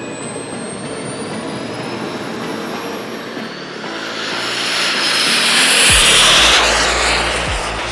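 Twin Xicoy 180 model jet turbines running at power, a steady jet roar with a thin rising whine in the first few seconds. The roar swells to its loudest about six seconds in, then eases off.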